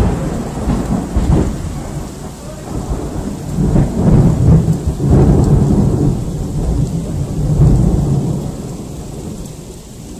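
Thunder rumbling over rain, swelling in waves through the middle and dying away near the end.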